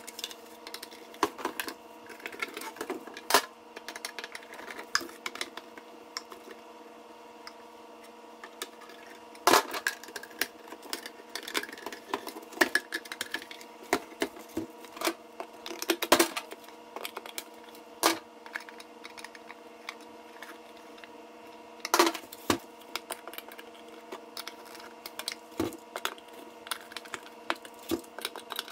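Irregular clicks and knocks of ceiling fan parts being handled and fitted back together during reassembly, the loudest knocks about 9, 16 and 22 seconds in, over a steady hum.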